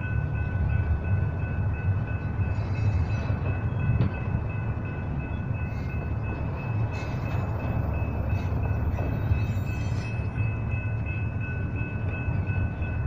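Double-stack intermodal well cars rolling past, a steady low rumble with a few scattered clicks. A thin, steady high squeal sits over the rumble.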